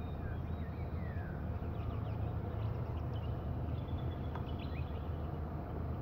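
Wild birds calling: a few short chirps and falling whistles, with a thin high held note about four seconds in, over a steady low rumble.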